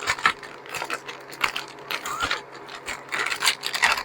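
Frozen pieces of food clicking and clattering as they are handled and set down on a freeze-dryer tray, in irregular, uneven knocks.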